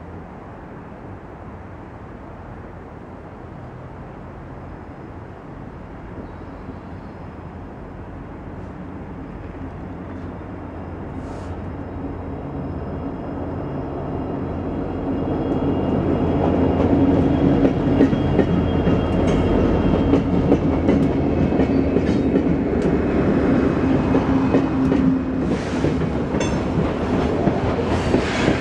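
Diesel-hauled freight train approaching and passing: a rumble that grows steadily louder over the first half and then holds loud, with a steady low drone for several seconds and the clickety-clack of wheels over rail joints near the end.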